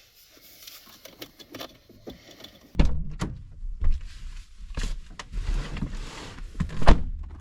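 A run of light clicks and rattles, then from about three seconds in louder knocks and thumps with rustling between them, the loudest knock near the end: mechanical handling noises of something being worked on by hand.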